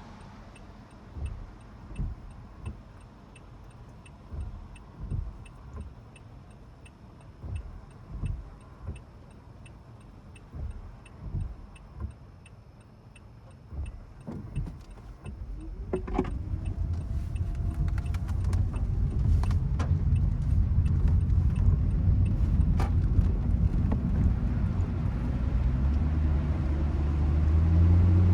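Car with the rain-day ambience of its cabin: for the first half it is almost still, with scattered low thumps and a faint, evenly spaced ticking. About halfway in it moves off, and the low engine and road rumble rises and grows heavier toward the end as it gathers speed.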